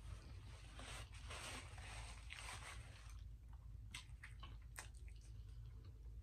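Faint, close-miked chewing of a mouthful of spaghetti with meat sauce: soft wet mouth sounds, with a few sharp clicks about four seconds in and a bite into a breadstick near the end.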